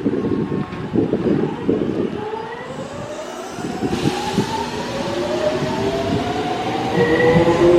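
Electric commuter train pulling away and accelerating: wheels clatter at first, then several motor and inverter tones climb steadily in pitch together and grow louder as it gathers speed.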